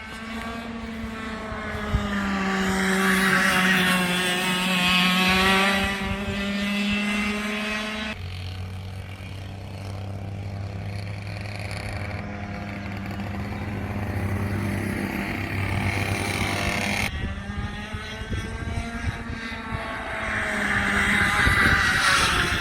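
A vehicle engine running at a steady cruise, with its pitch drifting slightly, in three stretches joined by abrupt cuts about a third and three quarters of the way through.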